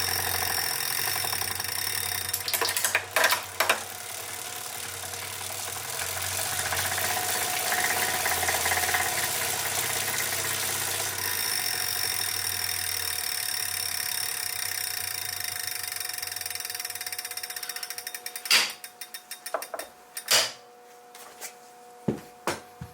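Wahoo KICKR 2018 smart trainer running with its abnormal mechanical noise, a steady whir with a low hum and a brief cluster of knocks about three seconds in. It then spins down: clicks that slow and fade, followed by a few sharp knocks. The noise is a recurring fault that returned even after the roller assembly was replaced.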